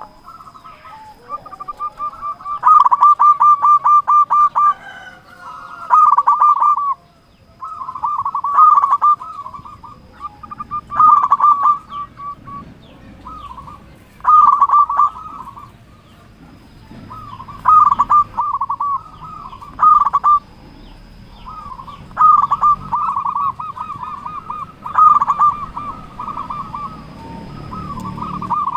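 Zebra dove (perkutut) cooing its song: about ten short, rapidly pulsing trilled phrases, one every two to three seconds.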